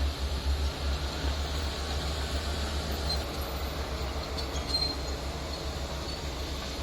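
Heavy truck engine running, a low steady rumble.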